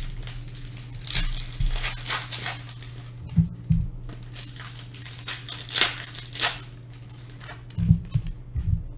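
Foil hockey card packs being torn open and crinkled in the hands, in irregular rustling strokes, with a few soft knocks about a third of the way in and near the end.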